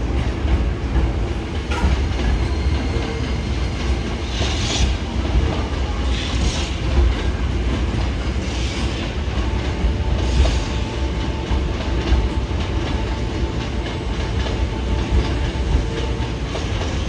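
Hankyu 9300 series electric train running past along a station platform: a steady low rumble of wheels on rail, with a higher hiss that rises and fades four times in the middle, and a faint steady whine in the later part.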